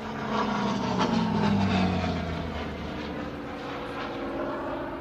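Hawker Sea Fury's Bristol Centaurus radial piston engine passing overhead. It is loudest between one and two seconds in, and its note drops in pitch as it goes by.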